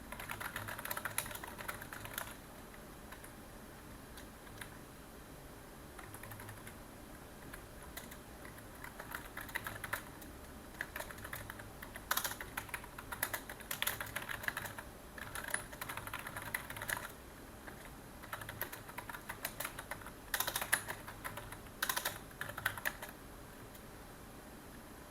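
Typing on a computer keyboard: runs of rapid key clicks in bursts, with short pauses between them and a longer lull between about 2 and 8 seconds in.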